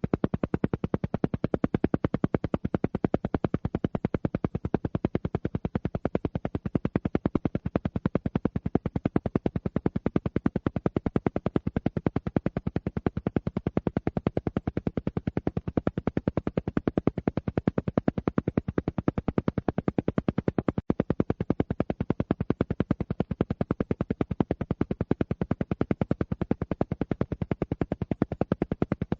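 Alpha-wave isochronic tone: a rapid, perfectly even train of short pulses, repeating many times a second without change. It is meant to entrain the brain toward the alpha state.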